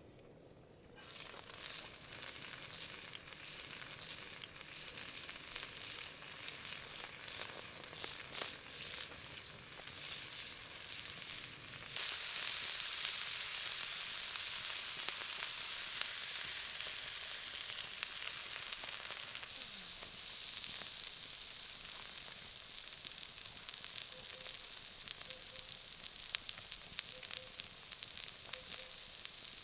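Beef sizzling as it cooks on a hot surface: a steady crackling hiss that starts about a second in and gets louder and denser about halfway through.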